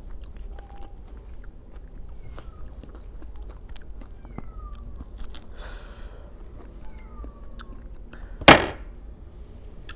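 Close-up chewing and mouth sounds of someone eating aloo tikki with curd, small wet clicks throughout. A single loud sharp knock comes about eight and a half seconds in.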